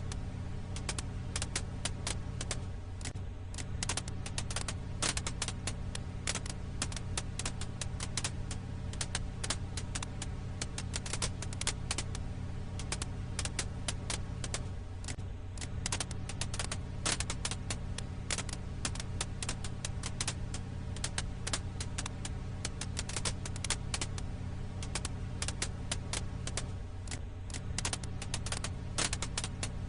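Firewood crackling in a campfire: dense, irregular pops and snaps over a steady low hum.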